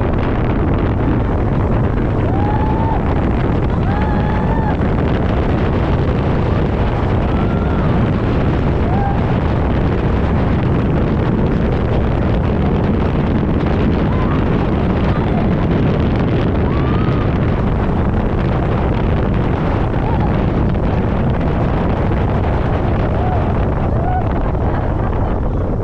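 Strong wind rushing and buffeting a helmet-mounted action camera's microphone as the rider glides along the cable at speed. Steady throughout, with a few faint short whistling tones.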